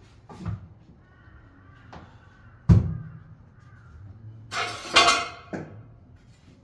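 A few sharp knocks of hard objects, the loudest a bit under three seconds in, then a brief rattling clatter about five seconds in, as tools or pieces of material are handled and set down.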